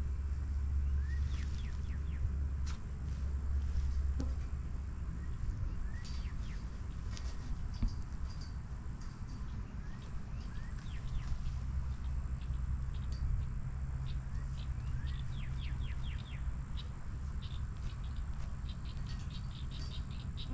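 Outdoor ambience: a steady high insect drone, with small birds giving many short, quick chirps that come thickest near the end, over a low rumble.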